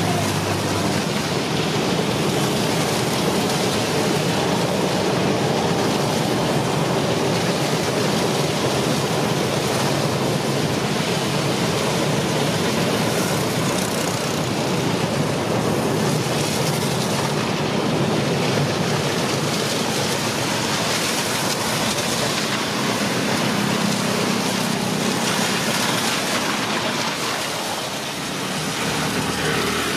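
A train running on the rails: a steady rush and rumble of wheels and running gear, dipping slightly near the end.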